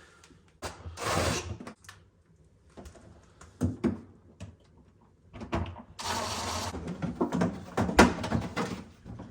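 A refrigerator part being worked back and forth into place by hand: sliding scrapes in bursts and several knocks, with a sharp click about eight seconds in.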